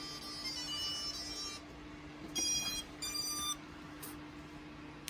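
Quadcopter ESCs (Spedix BLHeli_32) playing their power-up tones through the motors: a run of changing notes, then two short loud beeps about two and a half seconds in, over a steady low hum.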